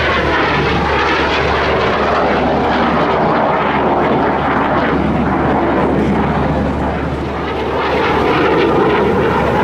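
Display aircraft engine noise, loud and steady, with the pitch sweeping as the aircraft passes, near the start and again near the end.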